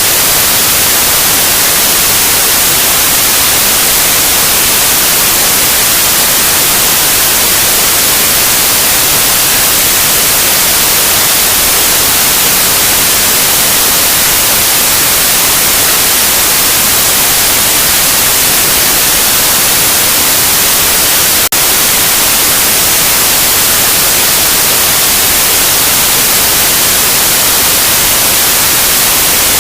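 Loud, steady white noise: an even, unchanging hiss, with one brief glitch about two-thirds of the way through.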